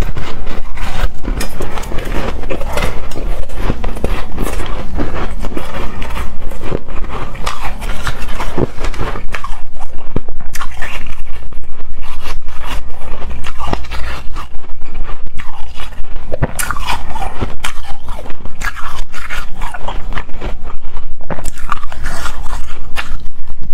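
Close-miked biting and chewing of hard, frosty shaved ice: a dense, unbroken run of crunches and crackles.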